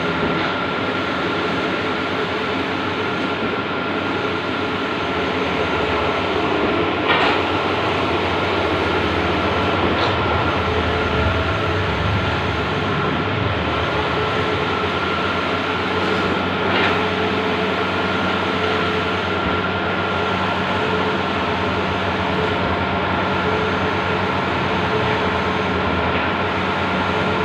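Large-format outdoor digital printing machine running: a steady mechanical noise with a constant high whine, and a few brief clicks.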